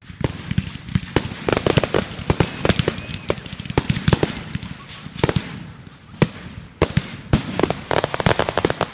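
Fireworks going off in a rapid, irregular barrage: many sharp bangs and crackles, some in dense clusters, over a continuous rumble of further bursts.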